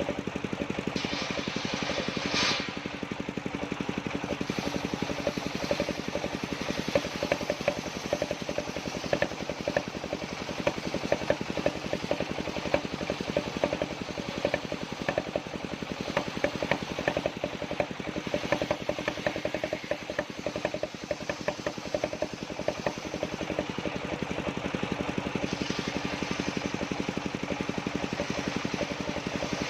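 Engine driving a circular-saw sawmill, running steadily with a fast, even beat throughout.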